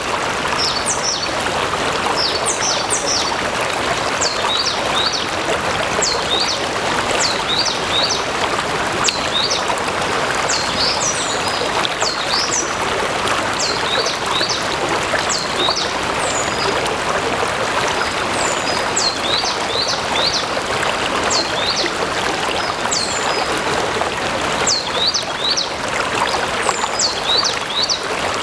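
Stream water flowing steadily, with a bird calling over it in many short, high chirps that each drop sharply in pitch, coming in quick clusters.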